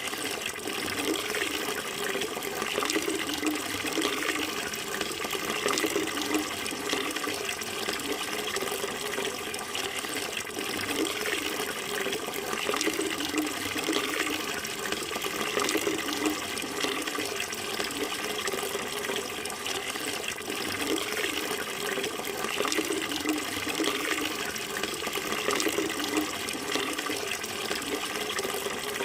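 Running water flowing and splashing steadily, with a continuous bubbling texture and no pauses.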